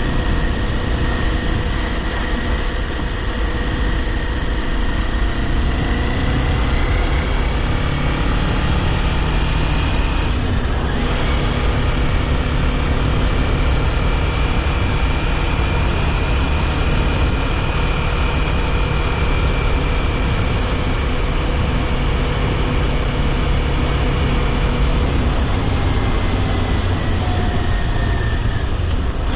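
Kawasaki Ninja 400's parallel-twin engine running under way, with wind and road noise. The engine note rises slowly, dips briefly about a third of the way in, holds steady, then drops near the end.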